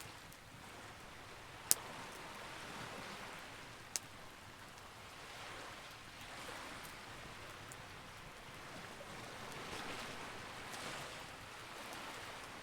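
Campfire crackling: a steady soft hiss that swells and eases, with two sharp wood pops about two seconds in and about four seconds in, and a few fainter ticks later.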